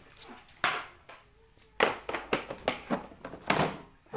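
Toy kitchen-set pieces knocking and clattering together as they are gathered up and put away: a string of about six sharp knocks at uneven intervals, most of them in the last two and a half seconds.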